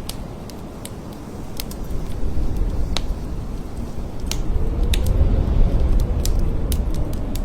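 Blizzard wind blowing in gusts, a deep rumble that swells to its strongest about five to six seconds in, where a faint whistling howl rises and falls. Scattered sharp ticks run through it.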